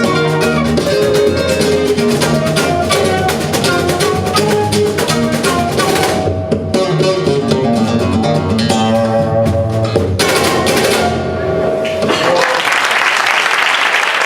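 Flamenco guitar played live, fast runs of plucked notes and sharp percussive strokes building to closing chords. The music stops about two seconds before the end and audience applause breaks out.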